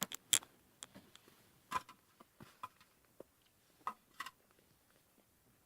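Small handling noises: a handful of short, sharp clicks and crackles, unevenly spaced, stopping about four and a half seconds in.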